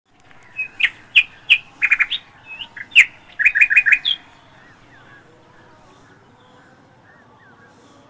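Birds calling: a quick run of short, sharp chirps and calls over the first four seconds, then only faint scattered calls.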